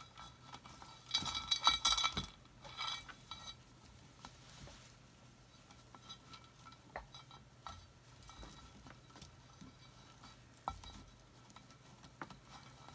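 Light clinks and clicks of craft materials being handled on a work table, with a cluster of rattly clinking about a second in, then scattered single clicks.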